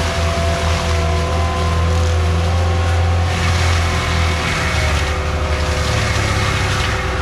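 Skid steer with a forestry mulcher running steadily, the engine's low drone under a steady high whine. About halfway through, the engine note drops and the hiss of the work grows.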